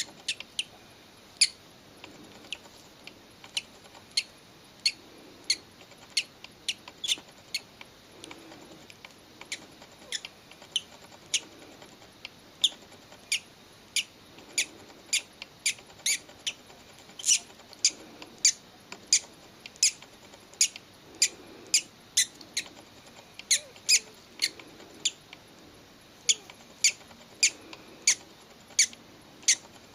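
Hatching parrot chick peeping: a run of short, high squeaks, one or two a second, coming faster and louder in the second half.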